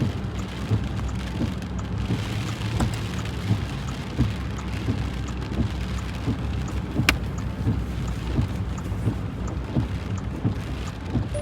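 Heavy rain pouring down in a thunderstorm, with many irregular sharp taps of drops striking hard surfaces over a steady low rumble. One sharp click about seven seconds in.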